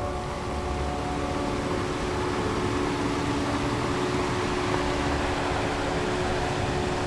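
Ocean surf rushing, swelling to a peak mid-way and easing again, under a sustained ambient synth drone of steady held tones.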